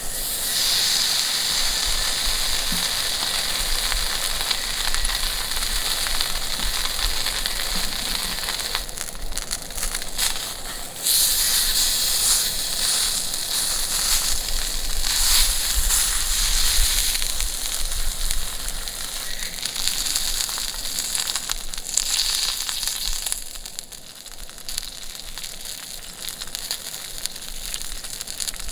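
Beef (ichibo rump cap) sizzling on a hot grill, a steady spitting hiss that gets louder about eleven seconds in and eases off near the end.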